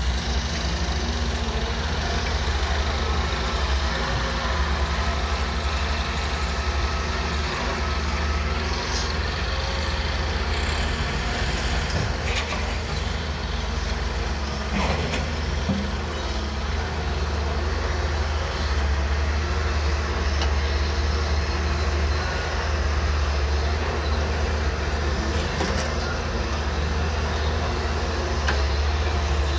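Heavy diesel engine running steadily at a constant low drone, with a few short knocks near the middle.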